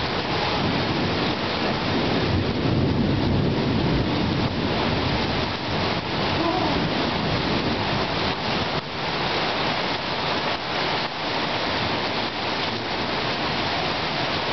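Heavy rain pouring steadily during a thunderstorm, with a low rumble of thunder about two to four seconds in.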